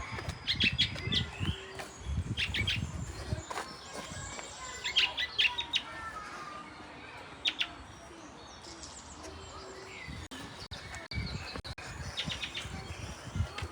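Birds chirping, with short, sharp high calls coming in quick clusters every couple of seconds.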